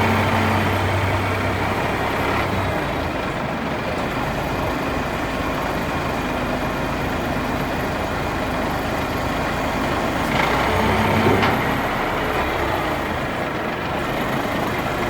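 Cummins 350 diesel engine of a crane truck running steadily at low throttle while it drives the crane's hydraulics to stow the boom. The engine note shifts briefly about ten to eleven seconds in.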